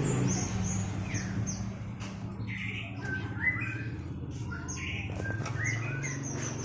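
Small birds chirping: quick, high, repeated chirps with some lower, fuller notes among them, over a low steady hum.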